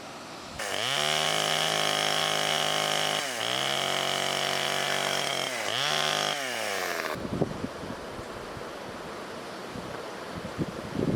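A power tool motor spins up to a steady whine, dips and recovers twice, then winds down. Scattered knocks follow, and a loud rough cutting noise begins at the very end.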